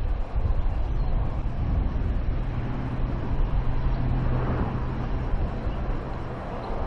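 Wind buffeting the microphone with a low rumble, over a steady low motor hum from a vehicle that fades out near the end.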